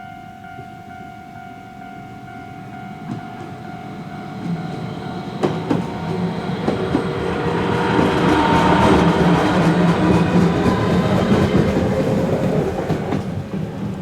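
A Fukui Railway tram running past, its running noise building to a peak about two-thirds of the way through and then easing, with wheel clacks over rail joints.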